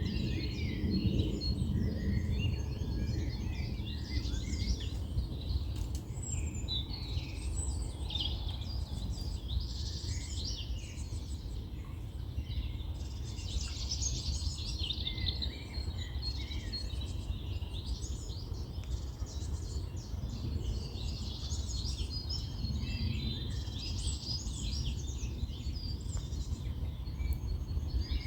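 Several small birds chirping and trilling in quick, overlapping calls over a steady low background rumble.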